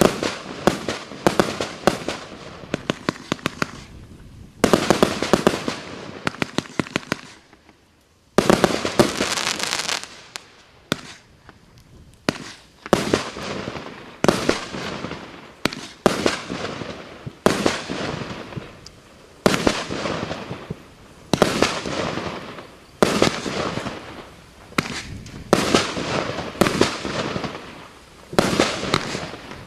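Piroff "Kilimanjaro" 134-shot combination fireworks cake firing. Quick runs of sharp shots, each bunch fading away. After a short lull about eight seconds in, the volleys come about every one and a half to two seconds.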